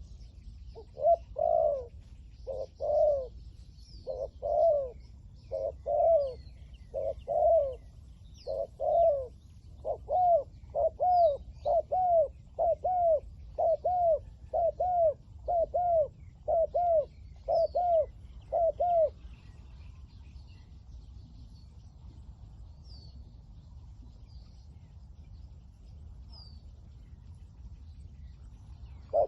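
Spotted dove cooing: a long run of short coos, about one a second at first and then about two a second, stopping about two-thirds of the way through. Faint high chirps of small birds sound throughout.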